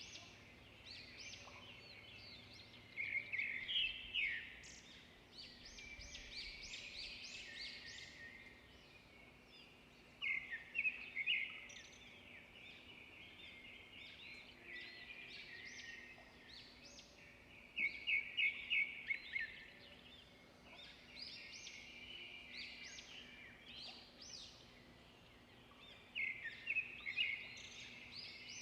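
Several songbirds singing and chirping over one another, with a louder song of rapid repeated notes returning about every seven or eight seconds.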